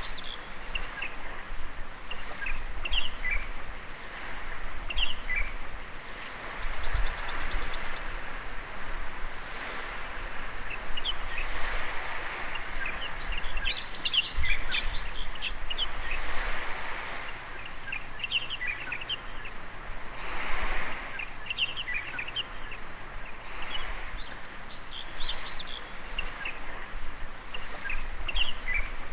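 Small waves washing in and out on a beach in slow swells, with wild birds chirping and calling throughout, including a quick trill about seven seconds in.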